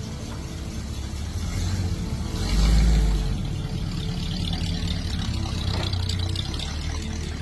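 A vehicle engine running, with a brief swell in level about two and a half seconds in.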